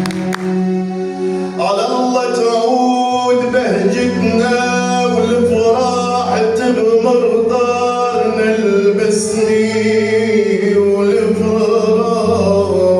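A man singing an Arabic song over held instrumental accompaniment. The voice comes in about a second and a half in.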